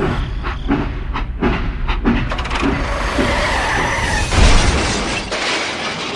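Small motor of a model construction machine running, with scraping, clicking and crunching over it; the motor stops about five and a half seconds in.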